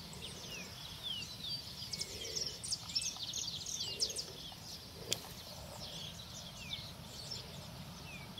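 Many small birds chirping and twittering at once, a dense run of short, quick, falling notes, over a steady low rumble of outdoor ambience. A single sharp tick about five seconds in.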